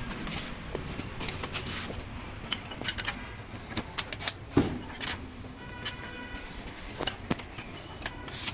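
Metal tools and engine parts clinking and knocking against each other during engine disassembly, with a piece of metal ringing briefly a little past the middle.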